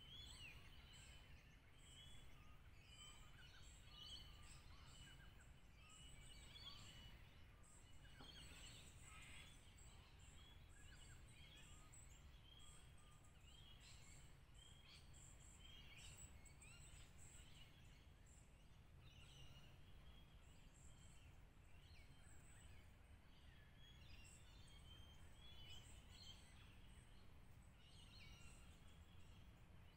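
Near silence: faint bushland ambience with scattered small bird calls over a low steady rumble.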